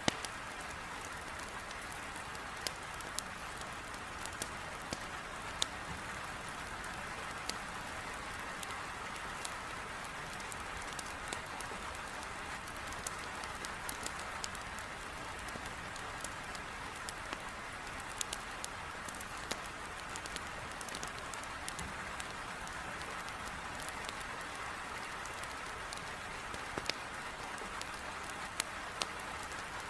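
Heavy rain beating steadily on a window, mixed with a wood fire in a fireplace crackling in scattered sharp pops.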